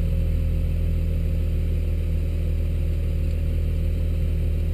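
The 2016 Porsche Boxster Spyder's 3.8-litre flat-six engine idling steadily with the car at a standstill.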